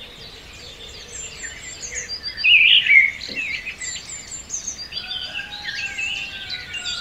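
Several small birds chirping and trilling in woodland over a faint steady outdoor hiss, the loudest run of chirps a little before the middle.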